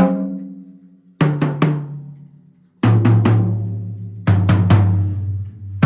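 Tom-toms of a walnut-shell acoustic drum kit, heard unmiked, struck in quick groups of about three hits. Each group sits lower in pitch than the last, moving down the toms toward the floor tom, and each hit rings out and decays.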